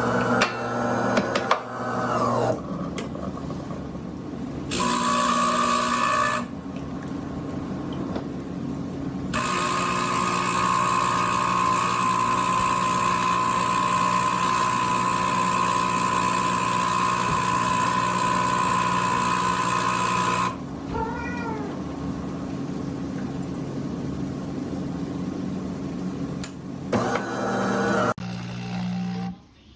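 De'Longhi Eletta fully automatic espresso machine running through a drink cycle: a steady motor and pump hum with a high whine that starts and stops in stretches, the longest lasting about ten seconds in the middle. It shuts off just before the end.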